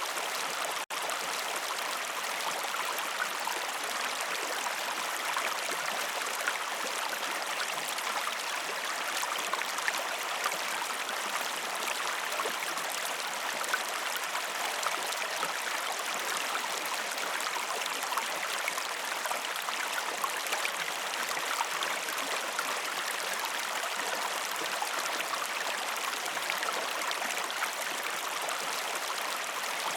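Steady rushing of flowing river water, with a momentary dropout about a second in.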